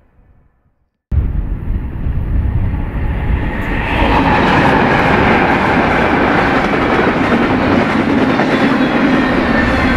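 BNSF freight train led by locomotive 4629 passing close by: loud rumble and clatter of wheels on the rails. It starts abruptly about a second in, builds over the next few seconds, then holds steady.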